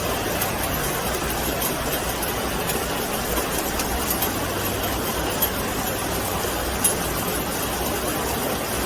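Steady rain falling, an even hiss with scattered drops ticking sharply, one louder tick about seven seconds in.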